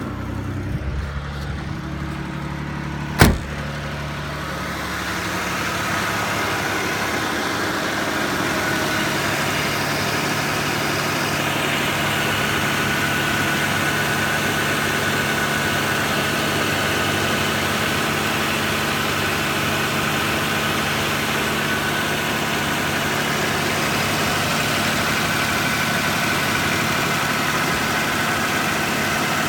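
Nissan 3.0 V6 engine from a 1995 Pathfinder running steadily at idle, sounding smooth and even. A single sharp click comes about three seconds in, and the running grows a little louder soon after.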